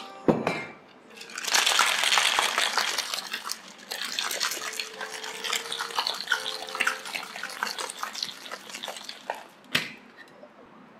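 Cocktail shaker full of ice being shaken vigorously, the ice rattling hard for about eight seconds and slowly easing off. There is a sharp knock just after the start and another near the end.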